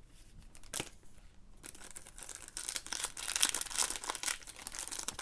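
A trading-card pack's wrapper being crinkled and torn open by hand, starting about a second and a half in, after a single click.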